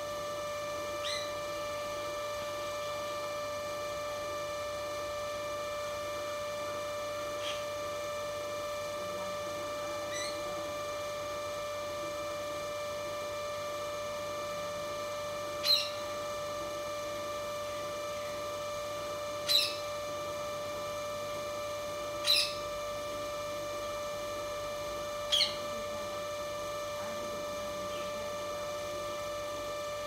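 Short, sharp single bird calls: a few faint ones, then four loud ones a few seconds apart in the second half, over a steady hum.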